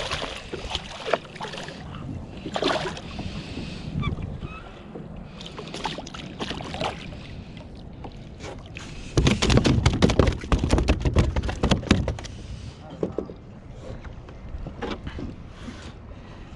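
Knocks and splashing on a fishing kayak, with a louder run of rapid thumps and splashes about nine to twelve seconds in.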